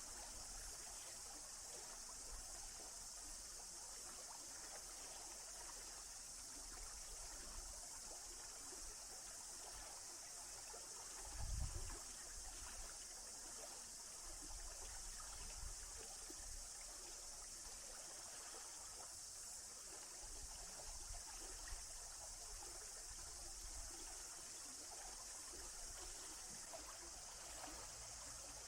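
Faint, steady running water of a forest stream, an even hiss without a break. There is one brief low thump a little before the middle.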